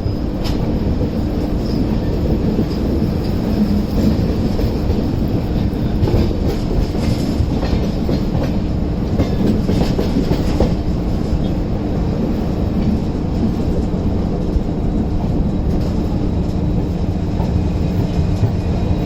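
Duronto Express passenger train running along the track: a steady, loud rumble of wheels on rails with a constant hum and light clicks scattered through it.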